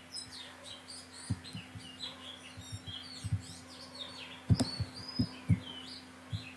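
Small birds chirping steadily in the background, many short quick calls, with a few soft low knocks, the loudest about four and a half seconds in.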